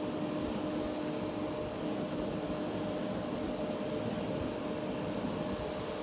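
Steady machine hum with a low, even drone and a fainter tone an octave above, unchanging throughout.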